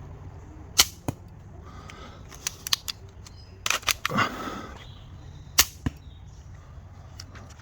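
A 3D-printed, rubber-band-powered pump-action arrow pistol being fired and cycled: two sharp snaps of shots, one just under a second in and one about 5.5 seconds in, with lighter plastic clicks and a short rustle of the action being worked between them.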